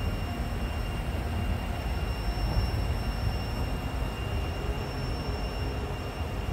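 White Pass & Yukon Route passenger railcar rolling downhill on the narrow-gauge track, a steady low rumble of wheels on rail.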